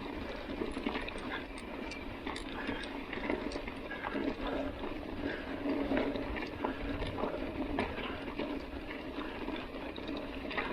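Mountain bike rolling over a dirt track: a steady rush of tyre and wind noise with frequent small clicks and rattles from the bike.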